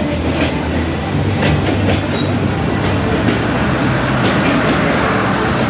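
Passenger coaches rolling past close by, their wheels clattering irregularly over the rail joints; near the end the rear diesel locomotive draws level and its engine joins the wheel noise.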